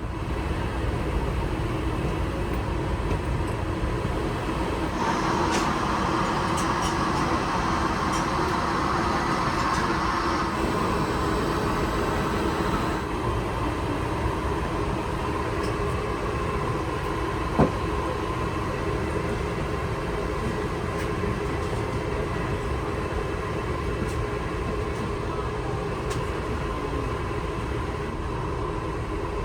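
Steady interior rumble of a moving vehicle with a constant hum. A brighter hiss rises for about eight seconds from about five seconds in, and a single sharp click comes a little past halfway.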